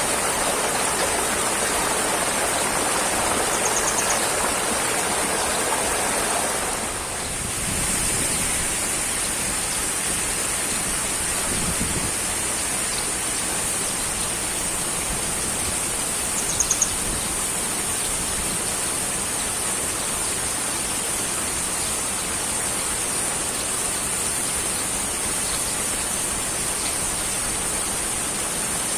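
Steady, even rushing noise of water, like rain or a stream, playing as a relaxation ambience. It dips briefly about seven seconds in.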